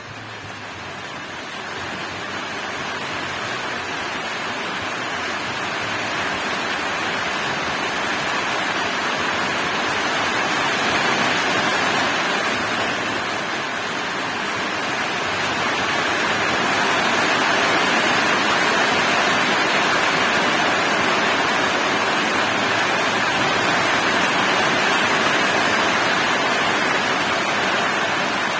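Heavy rain pouring steadily, building up in loudness over the first ten seconds or so and then holding.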